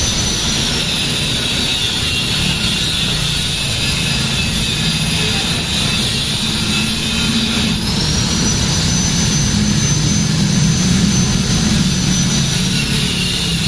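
Angle grinder cutting through the motorcycle's exhaust header pipe at the joint. Its high whine sags in pitch as the disc bites into the metal, rises back about eight seconds in as the disc is lifted, and sags again near the end as it cuts once more.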